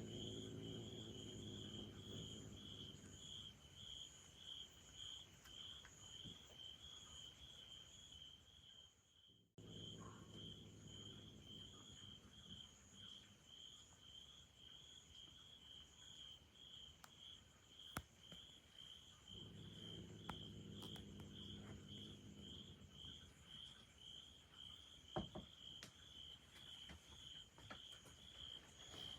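Faint insect chirping, a steady high pulsing trill that repeats a few times a second, broken once by a short gap. A low hum comes and goes three times underneath, with a couple of brief clicks.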